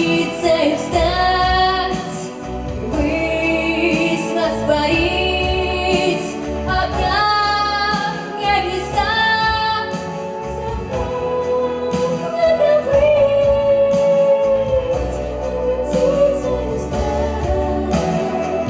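Song: a female voice singing long, wavering held notes without clear words over a backing track with a steady beat.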